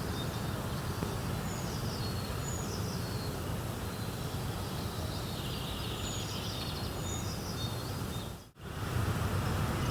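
Birds chirping over a steady background rush. All of the sound cuts out for a moment about eight and a half seconds in, then comes back a little louder.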